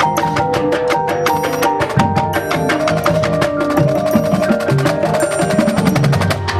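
Marching band music with the percussion section to the fore: rapid drum and woodblock-like strikes over held pitched notes and bell-like mallet percussion.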